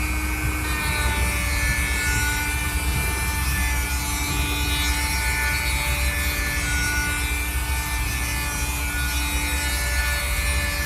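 Electric power tool running steadily with a constant whine, cutting into wood to widen the cutouts of a wine-glass drawer.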